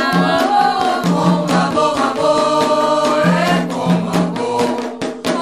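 Group of voices singing a Candomblé chant to Xangô, carried over a steady rhythm of atabaque hand drums and other percussion.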